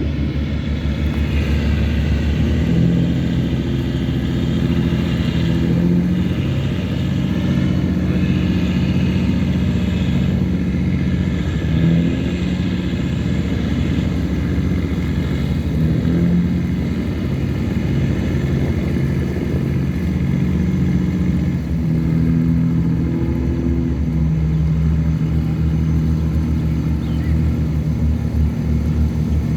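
A tugboat's diesel engine running steadily under load while towing a cargo barge. It makes a low, even throb with fine rapid pulsing, and its low tones shift a few times.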